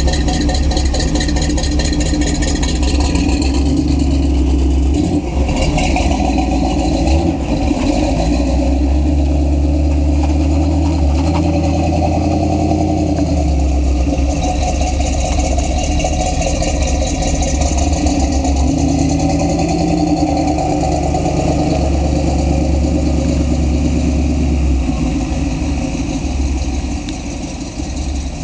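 1942 Chevrolet truck's straight-six engine running as the truck drives along, its engine note rising and dropping several times. It gets a little quieter near the end.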